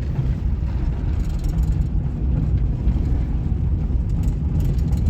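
Steady road and running noise heard inside the cabin of a 1998 Suzuki Baleno on the move. No squeak or rattle comes from the loose hood hinge, which now has a seal packed under it.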